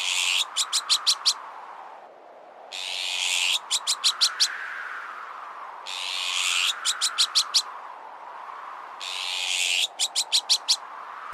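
Azure-winged magpie alarm calls, a harsh rasp followed by five quick sharp notes, repeated in a loop about every three seconds. Beneath them runs a wind-like whoosh that swells and fades.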